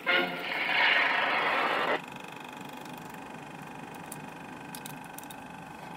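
The song's last sustained chord cuts off abruptly about two seconds in. A steady mechanical hum with faint tones follows: the Standard 8mm sound-film projector running on after the music.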